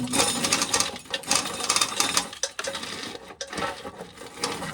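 Dry ear corn being shelled: a quick, dense run of clicks and rattles as kernels come off the cob.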